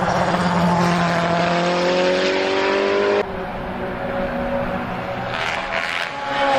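Race car engine revving sound, its pitch rising steadily for about three seconds before cutting off abruptly, followed by a rougher engine sound that drops in pitch near the end.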